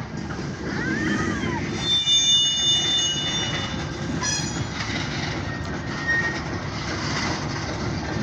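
Freight train of tank cars rolling slowly on the rails, a steady rumble of wheels on track, with high-pitched wheel squeal about two seconds in that lasts about a second, and shorter squeals after it.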